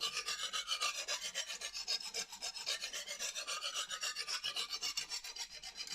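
Lansky guided-rod 120-grit stone stroked rapidly back and forth along a steel kitchen knife's edge at a 25-degree angle, an even, continuous rasping scrape of repeated strokes. This is the grinding of the bevel to raise a burr.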